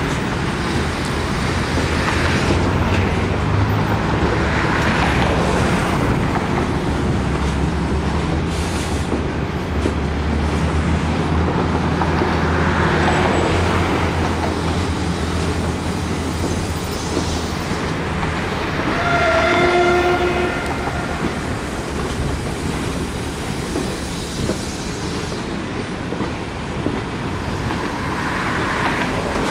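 EMD J26CW/AC diesel locomotive running as the train rolls into the station, wheels clattering over the rails, with a short horn blast about two-thirds of the way through.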